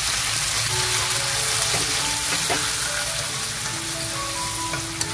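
Squid pieces sizzling in hot oil with fried garlic and shallots in a nonstick wok, a steady frying hiss, stirred with wooden chopsticks that click lightly a few times.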